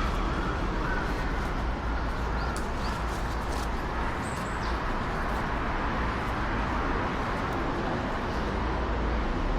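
Steady outdoor background noise with a heavy low rumble, and a few faint, short high chirps about three to four seconds in.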